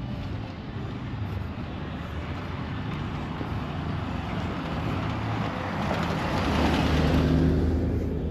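A car passing by: its engine and tyre noise builds to a peak about seven seconds in and then starts to fade.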